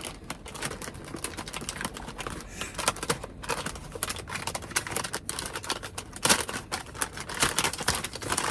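Crinkly plastic snack bag of lotus root chips being opened and rummaged through: a dense, irregular run of sharp crackles and clicks.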